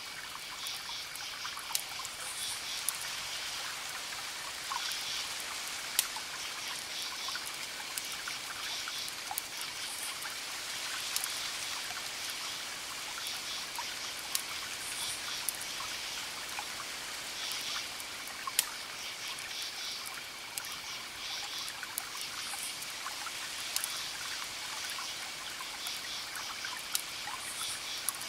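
Wood fire crackling, with sharp single pops every second or so over a steady hiss. A pulsed chirping call repeats every second or two behind it.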